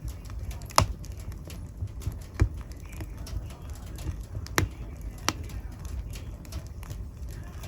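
Wood fire crackling in a fireplace: a steady low rumble of burning with irregular sharp pops and snaps, the loudest ones near the start, about two and a half seconds in, and twice between four and a half and five and a half seconds in.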